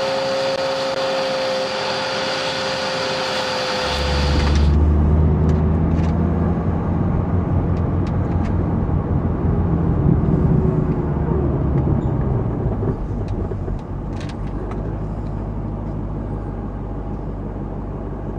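A steady motor whine with hiss that cuts off about four seconds in. It gives way to the low, steady rumble of a car being driven, heard from inside the cabin.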